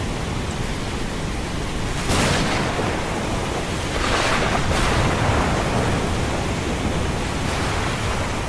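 Ocean surf: a steady wash of waves with a deep rumble underneath, a wave breaking about two seconds in and another around four to five seconds.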